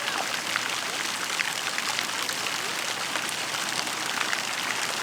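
Shallow valley stream running over rocks: a steady rush of water with many small splashes and bubbling blips.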